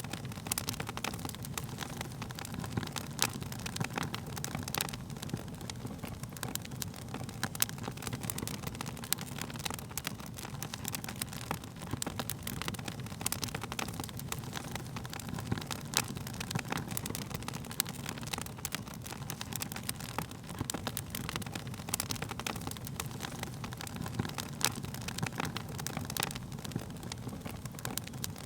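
Wood fire crackling, with sharp pops several times a second over a steady low rumble of burning flames.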